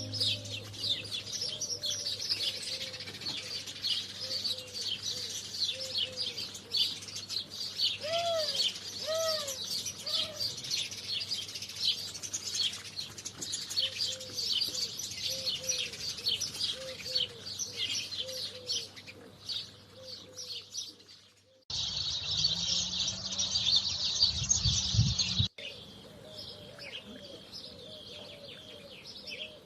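A flock of sparrows chirping continuously in a dense, overlapping chatter, with a lower, softer repeated call, like a dove's coo, sounding underneath. About 22 s in, the sound jumps abruptly to a louder burst of chirping over a low rumble, then cuts back to the chatter about three and a half seconds later.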